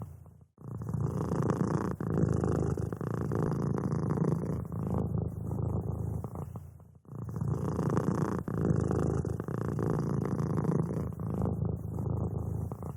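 Domestic cat purring steadily and close up, with brief breaks about half a second in and again around seven seconds in.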